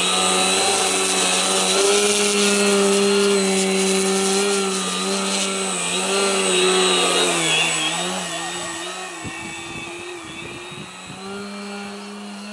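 Electric motor and propeller of an Extra 50 ARF radio-controlled aerobatic plane running in a hover, the pitch wavering with small throttle corrections. About seven seconds in, the pitch dips and the sound grows gradually quieter.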